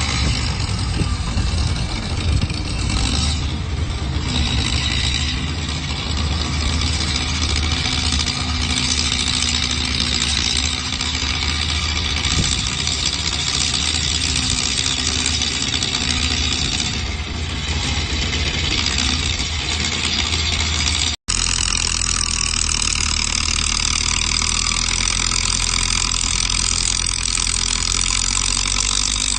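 Heavy diesel earthmoving machinery, bulldozer and dump truck engines, running steadily. The sound cuts out for an instant about two-thirds of the way through and then carries on.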